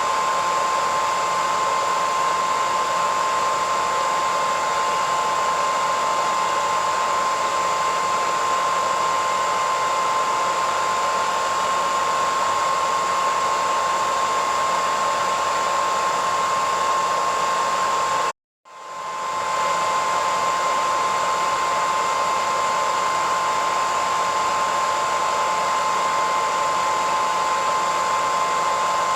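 Hair dryer running steadily: a loud rushing hiss of air with a high motor whine. About two-thirds of the way through it cuts out abruptly for a split second, then swells back to full strength within a second.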